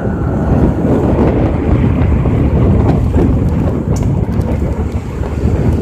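Loud wind buffeting the microphone: a continuous low, rumbling rush.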